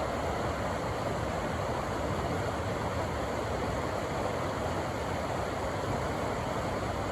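Rushing river water, a steady, even rush that does not change.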